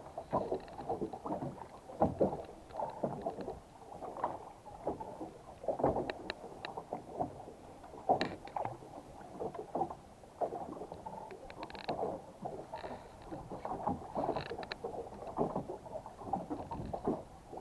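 Water splashing and slapping irregularly against a boat's hull.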